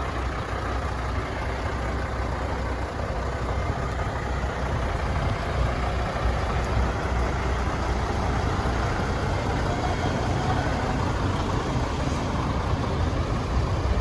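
Semi-truck diesel engine idling steadily, a low even sound with no change in pitch.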